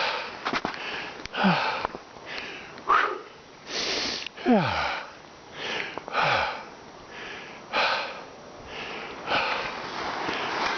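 A person breathing heavily while climbing: repeated loud, hissing breaths about every second or so, a few of them ending in a short falling voiced sigh.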